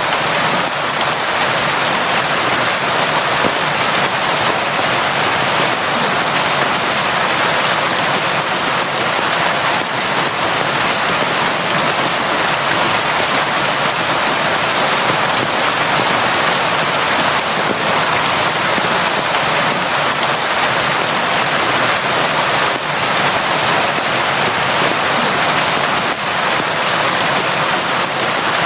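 Steady heavy rain, a dense even hiss of drops with a few individual drop ticks showing through, unchanging throughout.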